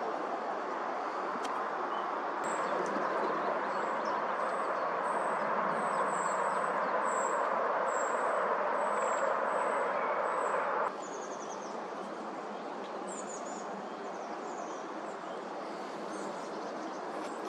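Outdoor ambience of steady wind-like rushing noise with small birds calling: a run of very high, short chirps repeated about twice a second, then a few short falling calls. About eleven seconds in the background noise drops abruptly.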